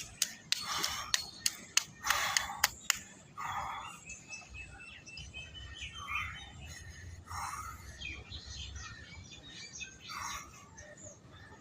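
Faint bird chirps, after a quick run of sharp clicks in the first three seconds.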